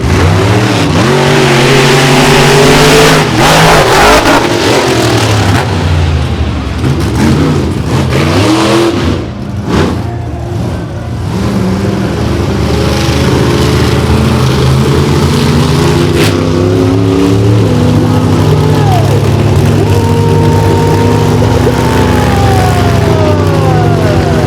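Two monster truck engines at full throttle in a side-by-side race, revving up and down repeatedly over the course, loud throughout; near the end the pitch falls as the engines back off.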